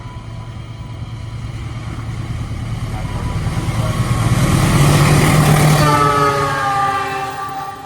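A diesel-locomotive-hauled passenger train approaching and passing, its engine rumble and wheel noise growing steadily louder to a peak about five seconds in. Just after the peak the locomotive's horn sounds, several tones together, its pitch dropping slightly as it goes by.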